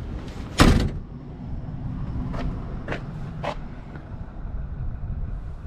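Steady low wind rumble on the microphone, with one loud, sharp thump a little under a second in, then three softer short knocks about half a second apart.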